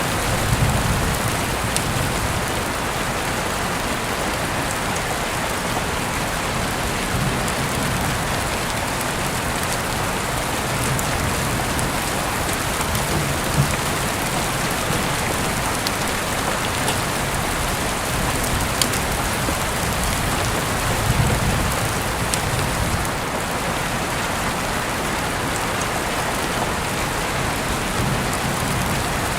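Heavy rain falling steadily through an open window, with the hiss of the downpour and sharp drop ticks. Soft low rumbles swell up a few times.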